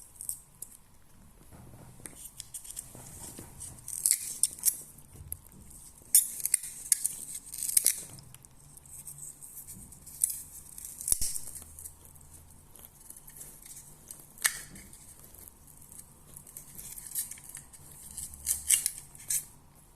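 A cat tugging and biting at the arrangement's plant material, making irregular bursts of crisp rustling and tearing with short pauses between them.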